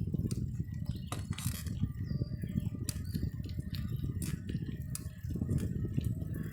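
Bicycle ride: a low, uneven rumble of wind and road noise, with scattered light clicks and rattles.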